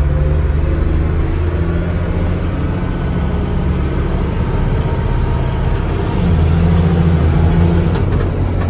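Military truck's diesel engine running under way, heard from inside the cab as a steady low drone. About six seconds in it pulls harder and gets louder for a couple of seconds, with a high thin whine rising over it, then eases back.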